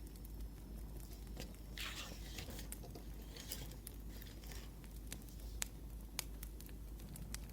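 Pen scratching on paper in short strokes, with scattered sharp pops of a crackling wood fire.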